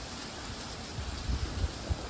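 Rain falling steadily during a thunderstorm, with irregular low rumbles that grow stronger in the second second.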